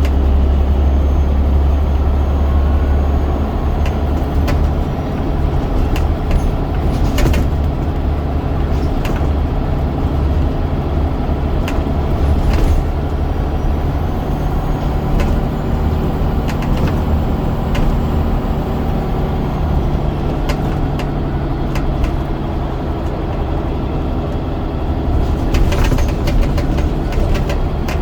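Scania DC9 9.0-litre five-cylinder diesel of a double-decker bus running steadily under way, a deep even rumble heard from on board, with several sharp knocks and rattles from the bodywork along the way.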